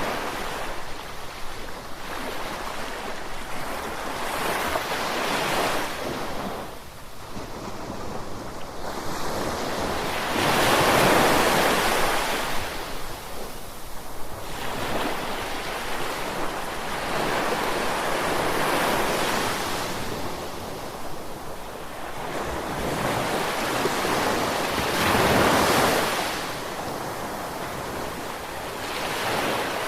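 Ocean surf: waves breaking and washing in as slow rushing swells every six or seven seconds, the loudest surges about a third of the way in and again near the end.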